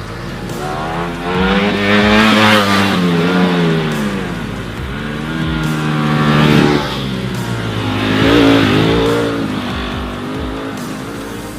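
Ducati Panigale V4 superbike's V4 engine revving and accelerating, its pitch rising and falling several times. The pitch drops suddenly about seven seconds in.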